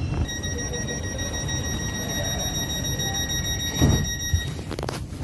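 Electronic warning tone on a Thameslink Class 700 train, sounding steadily for about four seconds over the low rumble of the train. A heavy thump comes just before the tone stops, followed by a few sharp clicks.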